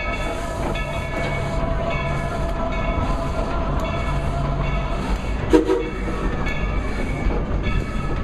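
Steam locomotive running, its exhaust chuffing at a slow, steady beat of about one a second over the rumble of the train. A brief sharp sound stands out about five and a half seconds in.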